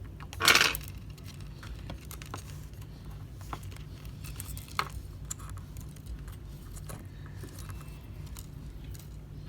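Small metal tool clicking and scraping on iPhone XR internals as parts are pried up, with one louder scrape about half a second in and scattered light clicks after.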